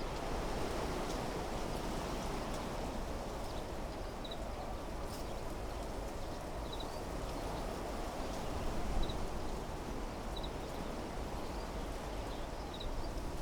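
Wind blowing through trees and shrubs: a steady rushing of leaves, with a low rumble beneath it. Short, high double chirps repeat every couple of seconds over it.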